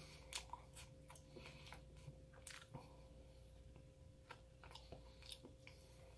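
Faint chewing and biting of a flaky croissant: soft, scattered crackles and mouth clicks, over a low steady hum.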